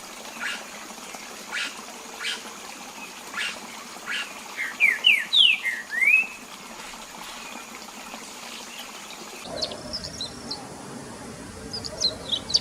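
Songbirds calling in a forest: short calls repeating about once a second, then a quick run of rising whistled notes, the loudest part. After that, other birds give higher, quicker chirps near the end.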